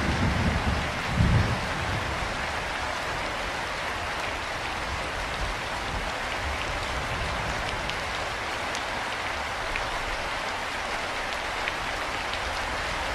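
Steady rain falling, an even hiss with scattered faint drop ticks. A loud low rumble sits under it for the first second and a half, then stops.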